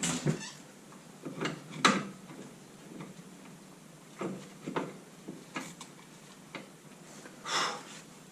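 Irregular clicks and knocks of hand tools and parts being worked on a car's suspension and steering, about a dozen sharp taps spread out, with a short rustling burst near the end.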